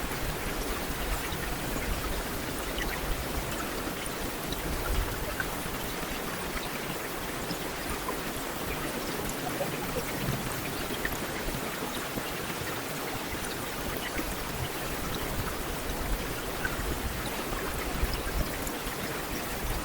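Heavy rain falling steadily, a dense even hiss with many small drop ticks scattered through it.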